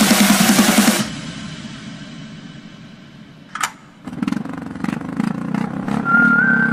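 Honda H'ness CB350 motorcycle engine in an advertisement's soundtrack. A loud passage cuts off about a second in, and a sharp whoosh comes about three and a half seconds in. From about four seconds the engine starts and runs with repeated strokes, and a wavering tone comes in near the end.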